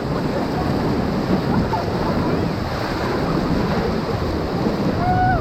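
Whitewater of the Ocoee River rushing steadily around a raft in a rapid, with faint short shouts from the crew near the end.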